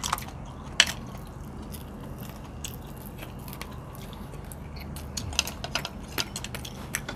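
Close-up chewing and biting of people eating by hand, heard as scattered wet mouth clicks and smacks, with a sharper click about a second in.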